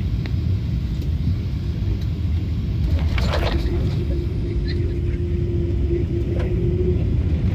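Steady low rumble of a Boeing 777 after landing, with a brief rattle about three seconds in and a steady hum held from about three and a half to seven seconds.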